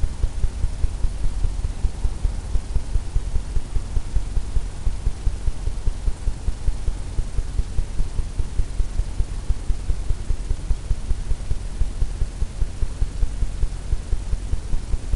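Steady low hum with an even throb about four times a second.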